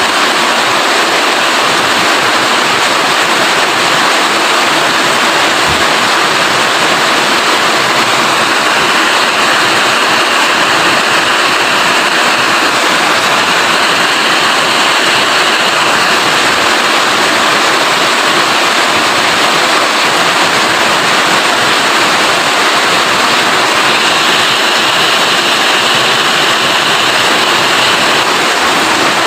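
Steady, dense rainfall: an even, loud hiss of drops that does not let up.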